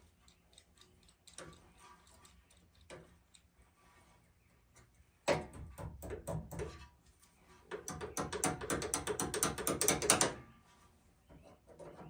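Ratchet wrench clicking as a nut is run off, in two spells: a short, uneven spell about five seconds in, then a longer, faster and louder run of rapid clicks from about eight to ten and a half seconds.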